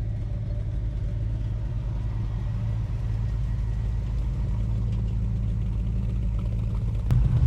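A motor vehicle engine idling steadily with a low, even hum. A click comes near the end, and the hum grows a little louder after it.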